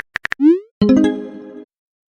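Edited-in sound effects: a quick run of sharp clicks, then a short rising sliding tone, then a brief musical tone with several pitches that fades out after under a second.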